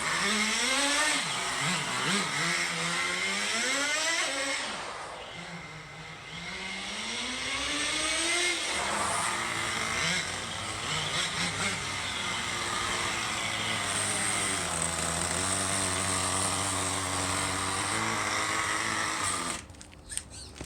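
Small two-stroke nitro engine of a radio-controlled car, revving up and down over and over as the car speeds up and slows, then holding a steadier pitch for a few seconds. The sound cuts off suddenly near the end.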